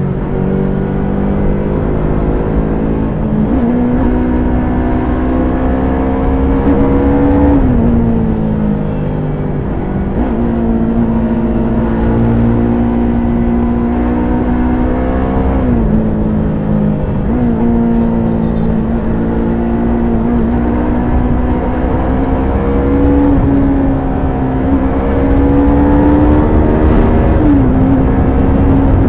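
Stock Yamaha YZF-R3's parallel-twin engine and exhaust under way, the engine note holding and slowly climbing, then dropping or jumping in pitch several times as the rider works the throttle and shifts gears, with wind rush underneath.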